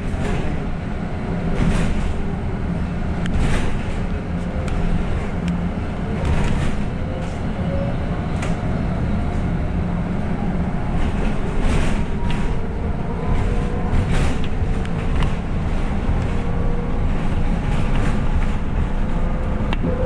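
City bus running, heard from inside the cabin: a steady low rumble with scattered rattles and knocks, and a faint whine that rises slowly in pitch over the second half.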